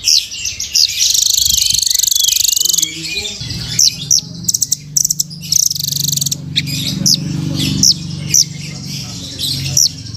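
Velvet-fronted nuthatch (rambatan) calling: sharp, high chirps repeated throughout, with a rapid buzzy trill about a second in that lasts nearly two seconds. A low hum runs underneath from about three seconds in.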